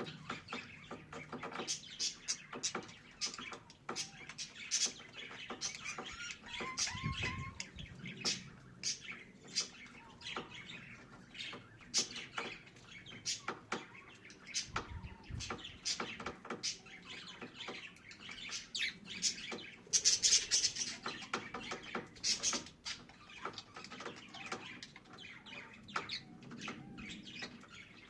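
Budgerigars twittering and chattering with a rapid run of short chirps and clicks, a louder stretch of chatter about two-thirds of the way through. A few soft low thumps, about a quarter and half-way in, fit wing flaps or movement in the cage.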